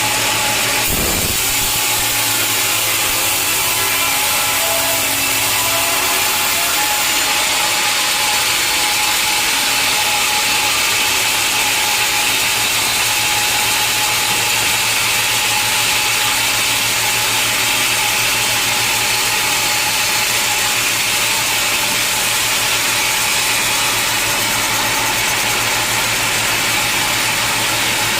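Sawmill machinery running steadily, a loud, even noise with a low hum, and a short knock about a second in.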